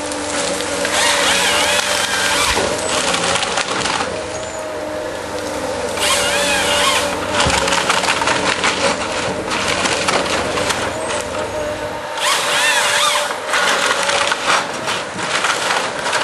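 Tree-felling harvester running with a steady engine hum, broken three times by the sound of the harvester head sawing through a trunk, with splintering wood.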